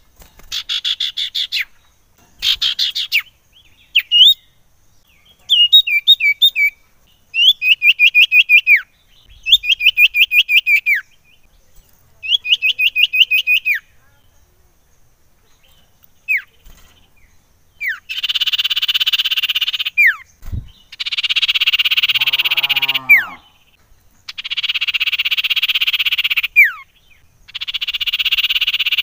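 Common iora (cipoh) singing: short phrases of rapid, falling whistled notes, then, a bit past the middle, four long buzzy rattling trills of about two seconds each, each ending in a quick falling whistle.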